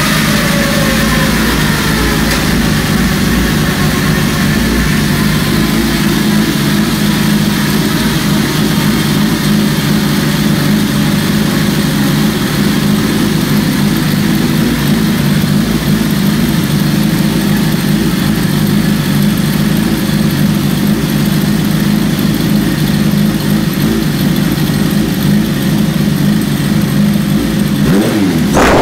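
1992 Suzuki GSX-R motorcycle engine running on a dynamometer: the revs fall away in the first couple of seconds, then it runs steadily, and near the end it is blipped up sharply.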